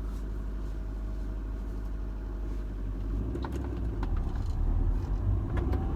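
Cabin noise of a 2005 Rover 25 on the move: steady low engine and road rumble that grows louder about halfway through.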